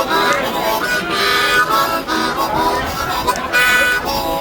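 Harmonica played solo, a run of shifting held and bent notes and chords.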